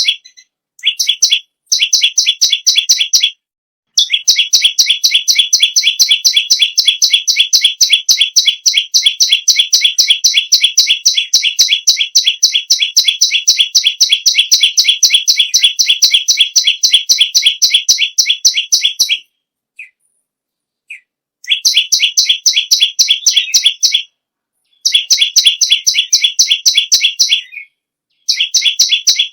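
Perenjak lumut (perenjak bawah) songbird singing hard in long, rapid runs of sharp repeated chip notes. The longest run lasts about fifteen seconds, the others a few seconds each, with short breaks between them.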